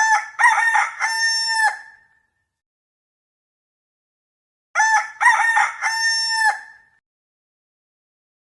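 Rooster crowing twice, cock-a-doodle-doo, each crow a few short notes ending in a long held note, about five seconds apart.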